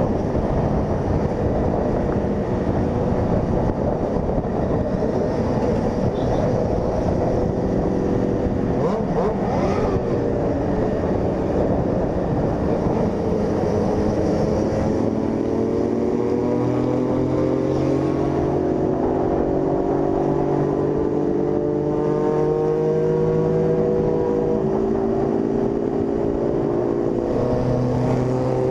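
Honda CG 160 Fan single-cylinder motorcycle engine running at road speed under heavy wind rush on the microphone. Its engine note comes through more clearly in the second half, climbing slowly in pitch.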